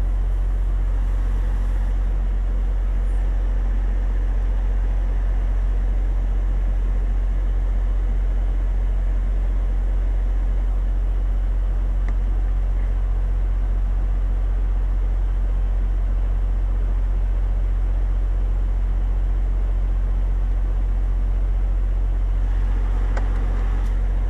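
Semi truck's diesel engine running steadily with a deep, even hum that does not change in pitch.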